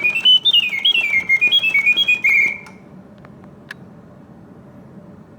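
Reuge singing bird cage automaton whistling a run of stepped notes and fast trills, which stops about two and a half seconds in as the bird goes into its pause, leaving only a few faint clicks. The long pause is typical of Reuge cages and a sign of sound bellows and mechanism.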